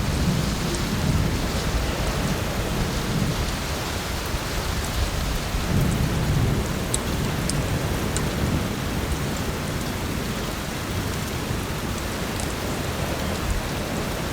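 Steady heavy rain with a low rumble of thunder rolling underneath, and a few sharp pops from a crackling wood fire.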